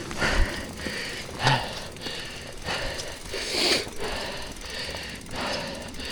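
A man breathing hard and raspily, with one heavy breath every second or two, winded from exertion.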